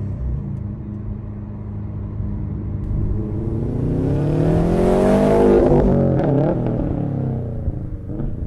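Exhaust of a turbocharged Subaru fitted with an AWE catback system. The engine runs steadily, then rises in pitch and loudness to a peak about five seconds in, and drops away again.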